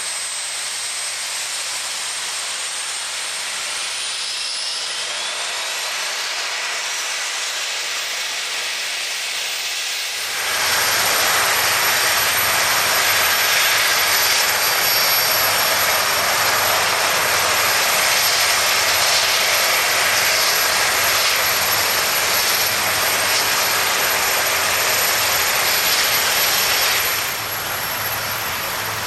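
Helicopter flying by, heard first as a fainter running noise with a rising whine. About ten seconds in the noise comes in suddenly much louder, holds steady, then drops away abruptly near the end.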